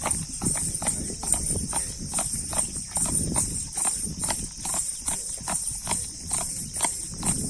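Horse's hooves clip-clopping in a steady, even rhythm, about three or four hoofbeats a second.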